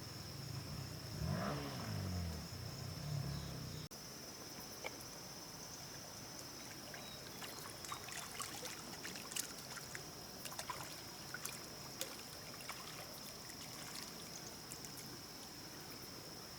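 Steady high insect drone over a rainforest background, with water trickling and many small clicks and splashes. In the first few seconds a louder low sound rises and falls, ending abruptly at a cut about four seconds in.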